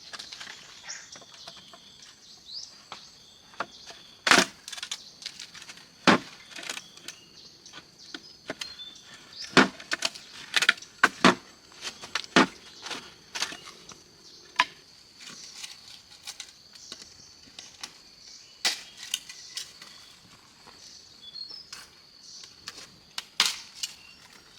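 Irregular sharp knocks and clicks, some much louder than others, over a steady high insect drone.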